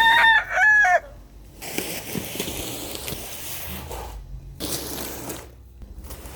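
A rooster crowing loud, with the crow ending about a second in. It is followed by a quieter even hiss that cuts out abruptly twice.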